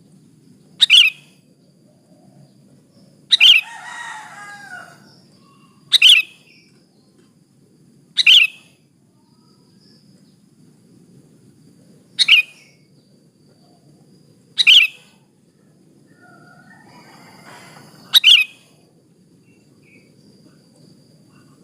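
Sooty-headed bulbul (kutilang), presented as a female calling a male, giving a short, sharp call seven times at intervals of two to four seconds. A softer warbling phrase follows the second call.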